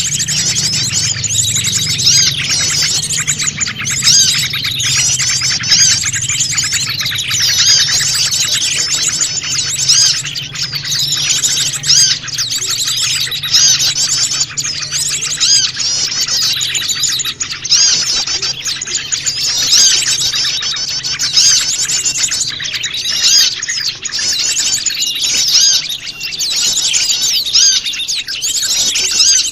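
Dense, noisy chorus of many small wild birds chirping and twittering over one another without a break. It is a mixed small-bird call recording of the kind played as a lure to draw small birds in.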